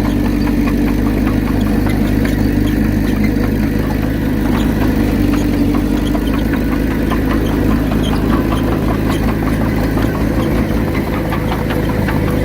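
Bulldozer's diesel engine running steadily, with many light metallic clicks and rattles over it.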